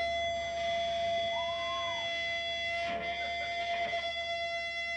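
Electric guitar amplifier feedback: steady high ringing tones held without a break, with a brief knock about three seconds in.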